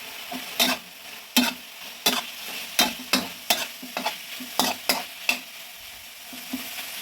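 Fried tofu sizzling in a hot pan as it is stirred, with about a dozen sharp, uneven clacks of the stirring utensil against the pan.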